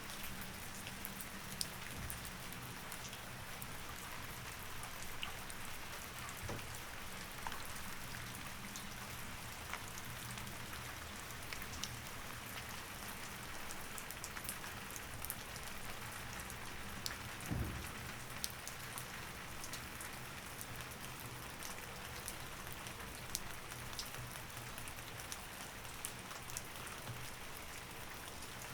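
Steady rain, with individual drops ticking over an even hiss and a low steady hum underneath. About two thirds of the way through there is one dull thump.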